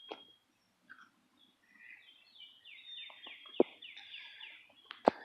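A bird calling outdoors: a high whistled note at the start, then a quick run of about seven short, falling high notes. A sharp knock about three and a half seconds in is the loudest sound.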